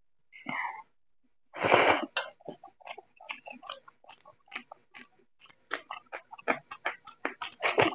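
Close-miked open-mouth chewing of hand-eaten rice and chicken curry: wet smacking clicks, about four or five a second, after a louder noisy mouth sound about a second and a half in.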